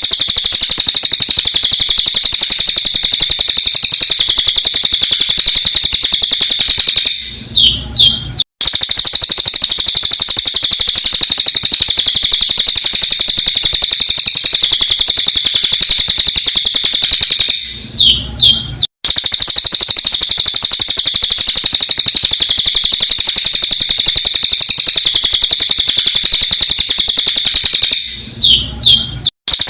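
Cililin songbird song, sped up and looped: a dense, rapid, high-pitched chatter that runs for about seven seconds, breaks briefly for a few separate chirps, then starts again, three times over.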